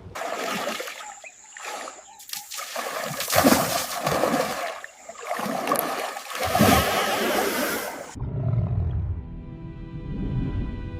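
Heavy splashing of water in several loud surges, followed near the end by music with sustained tones.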